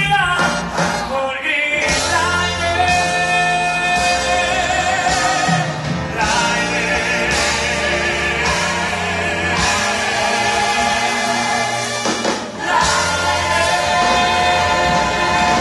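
Stage musical number: a cast of singers with band accompaniment, the voices holding long notes with vibrato. The sound dips briefly about twelve seconds in, then the full singing comes back.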